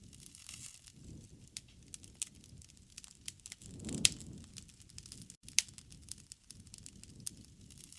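Wood campfire crackling: irregular sharp pops and snaps over a low, soft rush of flame, with one louder pop about halfway through.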